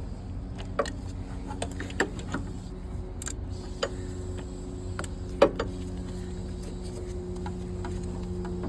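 A wrench working the belt tensioner on a Cummins ISX engine: a handful of sharp metallic clicks and knocks at uneven intervals, the loudest a little past halfway, over a steady low hum.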